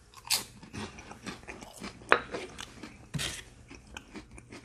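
A person chewing a mouthful of sardine and saltine cracker close to the microphone: irregular wet chewing and cracker crunches, with one sharp crunch about two seconds in.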